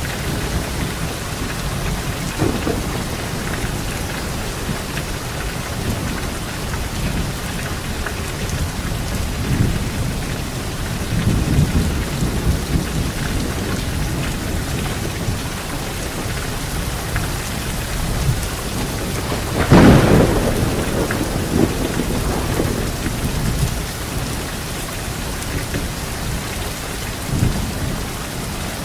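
Steady light rain falling on leaves, with low rolling thunder. A louder, sharper thunderclap comes about two-thirds of the way through and rumbles away.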